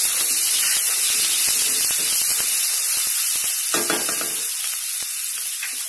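Chopped onion and chana dal sizzling in hot oil in a steel kadai, with the clicks and scrapes of a spatula stirring against the metal. A short pitched sound comes about four seconds in.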